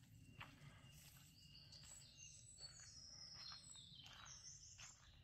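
Faint songbird song in woodland: a quick run of short, high whistled notes through the middle, with soft footsteps on a dirt track underneath.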